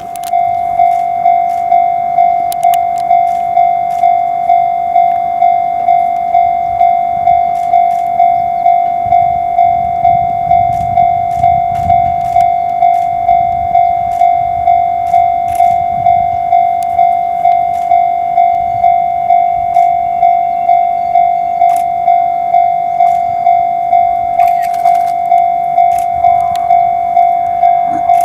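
Japanese railway level-crossing warning bell ringing: a single electronic tone repeating evenly a little under twice a second. A low rumble swells in the middle.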